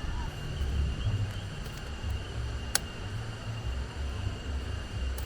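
Strong wind buffeting the microphone, a low rumble that swells and drops in gusts, with a faint steady high tone behind it and one sharp click a little under three seconds in.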